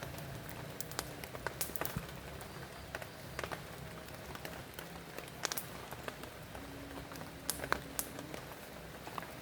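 Steady rain falling, with individual drops striking a nearby surface in irregular sharp ticks.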